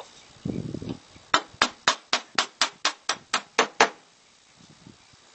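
Eleven quick, sharp taps, about four a second, as a round metal vent plug is tapped into its 2-inch hole, after a brief low handling noise.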